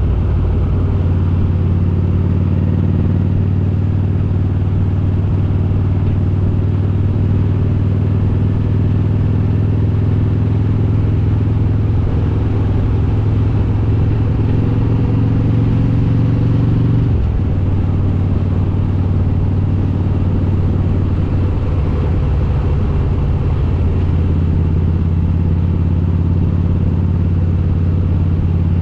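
Harley-Davidson Road King's S&S 95-cubic-inch V-twin with Super Stock heads running steadily under way. Its note climbs slowly, then drops abruptly about two-thirds of the way through and settles at a lower, steady pitch.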